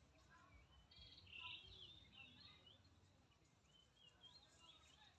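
Faint birdsong: many short chirps and whistles from wild birds, briefly louder and busier about a second and a half in.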